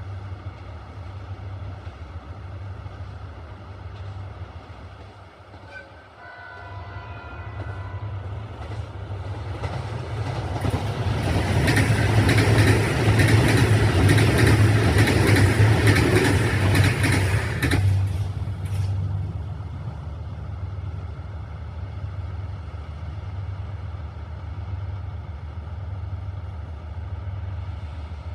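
Two diesel trains crossing: a steady low diesel hum runs throughout, a train horn sounds briefly about six seconds in, then a train passes at speed for about ten seconds, its wheels clacking rhythmically over the rail joints as the noise swells and fades away.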